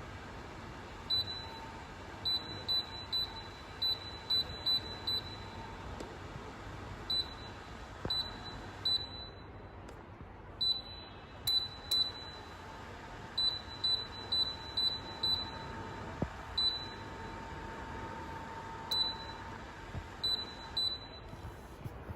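Touch control panel of an ECOWELL EHT200 electric space heater beeping at each key press: about thirty short, high, identical beeps, singly and in quick runs, over a steady background hiss.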